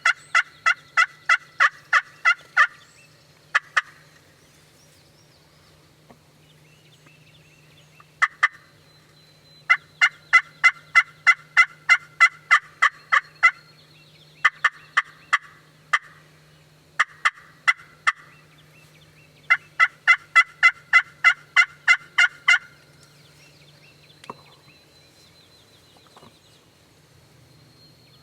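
Wild turkeys yelping in long runs of rapid, evenly spaced notes, about four or five a second, with short pauses between runs. A low steady hum lies underneath.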